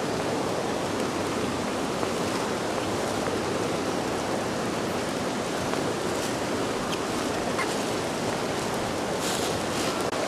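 Steady rush of flowing river water, with a few faint clicks near the end.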